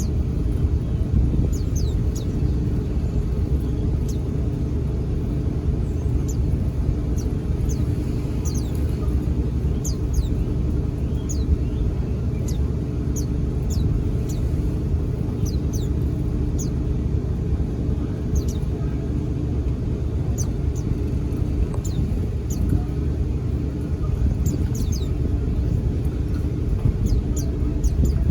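White-eyes giving short, high, downward-slurred chirps, scattered irregularly throughout, over a loud, steady low rumble.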